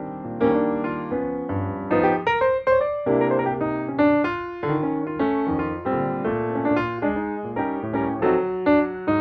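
Background piano music: a gentle melody over chords, notes struck in a flowing rhythm.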